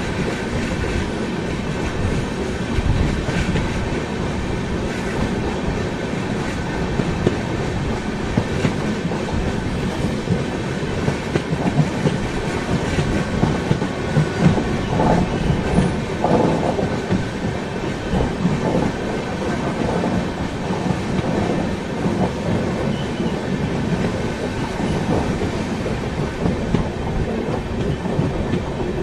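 Passenger train with LHB coaches running along the track: a steady rumble with the wheels clattering over the rail joints. The clatter grows louder and busier for a few seconds about halfway through.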